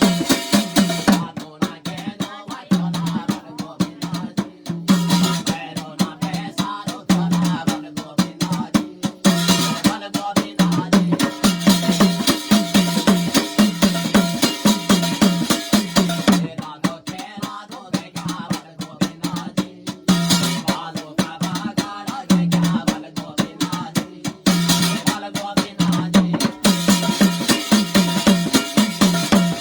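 Instrumental interlude of a Garhwali jagar: fast, steady folk drumming with no singing, swelling and thinning in sections every few seconds.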